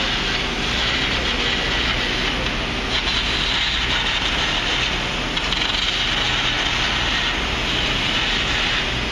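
Steady construction-site and street noise: a continuous hiss over a low hum, with a scraping edge that swells and fades every few seconds.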